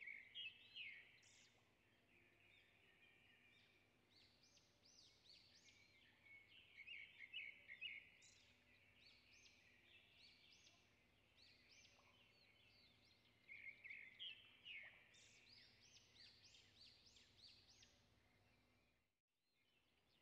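Faint birdsong: many quick, high chirps and trills, with a brief drop-out near the end.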